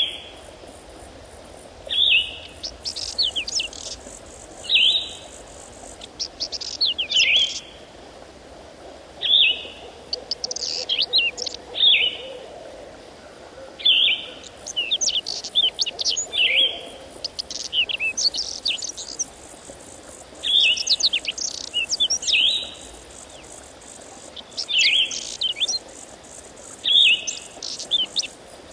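Birdsong: a songbird sings short phrases of high, quickly falling notes over and over, one phrase every two to three seconds, over a faint steady background noise.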